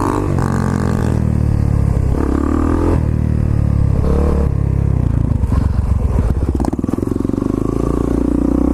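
Single-cylinder dirt bike engines under way, rising in pitch and dropping again several times, with a stretch of rougher, uneven low-rev running a little past the middle.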